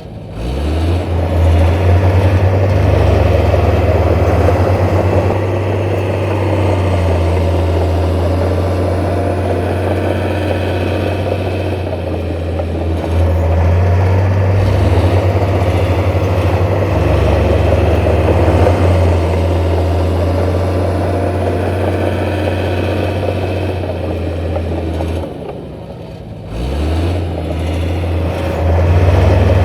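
Heavy diesel construction machinery running steadily at a low, deep pitch, dipping briefly about 25 seconds in before coming back up.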